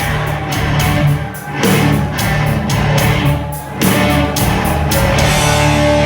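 Hard rock band playing live: electric guitar over a steady pounding of drums and cymbals, with no singing.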